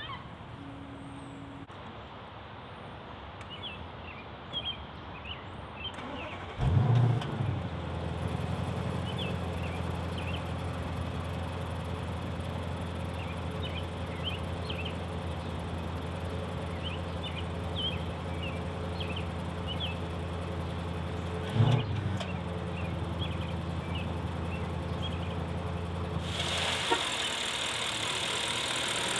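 Audi A8L's 4.0-litre twin-turbo V8 starting about a third of the way in with a brief loud flare, then settling into a steady low idle. A short rev blip comes about three quarters of the way through.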